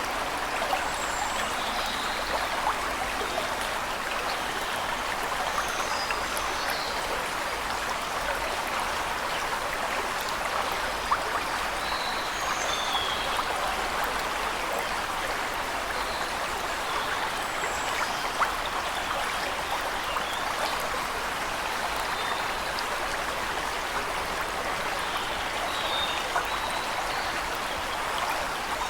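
Waterfall rushing steadily, with faint bird chirps scattered over it now and then.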